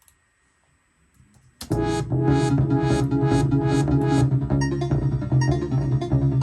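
Electronic music from synthesizers with a drum-machine beat starts suddenly about one and a half seconds in, after near silence, and plays on loudly with a repeating bass line and synth chords.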